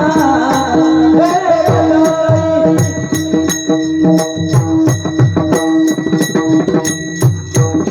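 Devotional-style singing with pakhawaj drum accompaniment: a voice sings over a steady held drone for about the first three seconds, then the pakhawaj strokes and bright metallic jingles carry the rhythm on their own.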